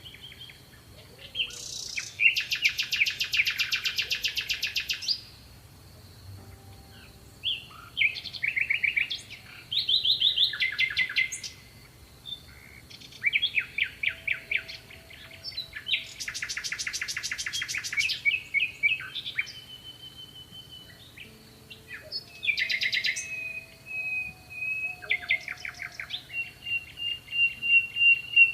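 Songbirds singing, several at once: bursts of fast buzzy trills a few seconds long alternate with quicker chirping phrases, and near the end one bird holds a thin steady whistled note. A faint steady high tone runs underneath most of the time.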